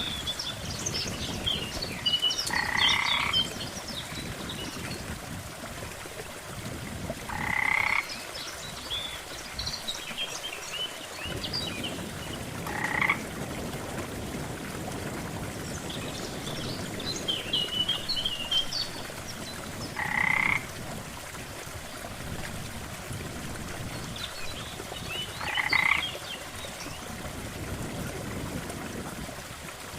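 Frogs croaking: five loud calls, each under a second, roughly every five seconds, with fainter high twittering calls between them over a steady low hiss.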